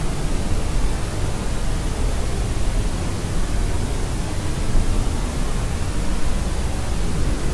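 Steady white-noise sleep sound, a constant even rush that is deeper than pure hiss, with most of its weight in a low rumble, like pink noise. It does not change.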